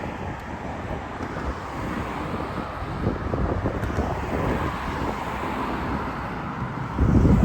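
Road traffic running steadily, with wind buffeting the microphone. A stronger low gust comes near the end.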